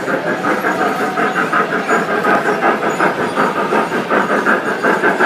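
Model train running on a layout track, giving a fast, even rhythmic clatter of about five beats a second.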